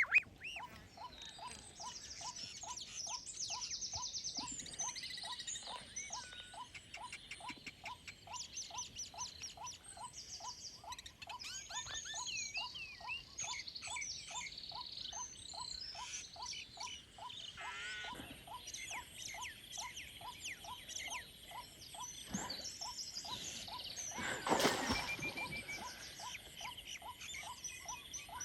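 Wild birds chirping and trilling, over a steady run of short repeated calls about two to three a second, with a brief louder noise near the end.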